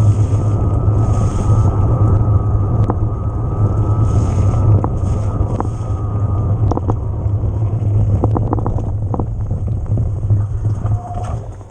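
Riding noise of an electric mountain bike: a steady rumble of wind on the microphone and tyres rolling over rough ground. Scattered sharp clicks and rattles come in from about halfway, and the noise eases off near the end.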